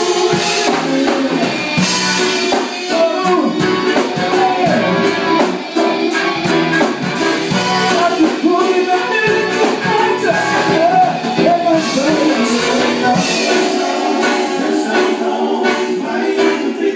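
A live band playing a song, with a sung vocal over guitar and a drum kit.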